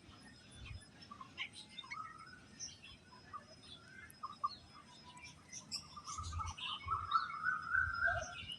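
Several birds chirping with short, scattered calls, joined near the end by a longer warbling call lasting about two seconds. A few soft low bumps sound underneath.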